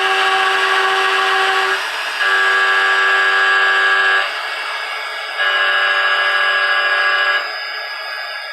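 A 4-flute carbide endmill in a desktop CNC mill cutting case-hardened steel at 3000 RPM, giving a loud, steady, pitched squeal of chatter. There are three cuts of about two seconds each with short breaks between them. About three-quarters of the way in the cutting stops and a quieter hiss is left.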